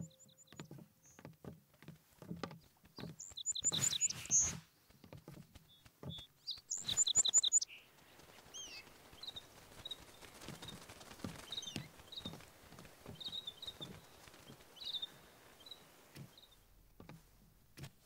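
Birds chirping. Two louder bursts of rapid high chirps come about four and seven seconds in, then fainter scattered chirps follow. Soft low taps sound through the first half.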